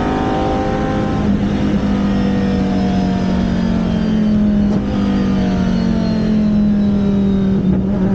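Race car V10 engine running hard at speed, its pitch drifting slowly down and back up. The engine is the Dinan-built BMW V10 of a Riley Daytona Prototype.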